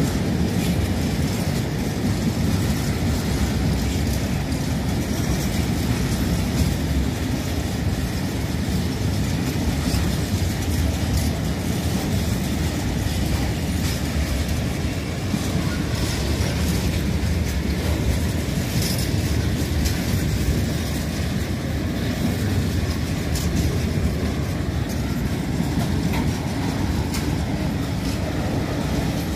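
Freight train of tank wagons rolling past close by: a steady low rumble of wheels on rail, with scattered clicks as the wheels cross rail joints.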